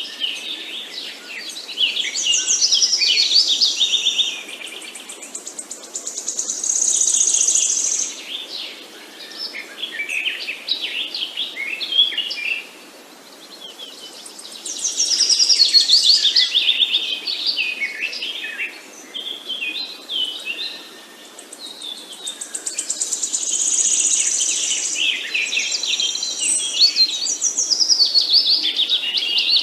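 Several birds chirping and trilling in a dense, overlapping chorus, swelling and fading in waves every several seconds.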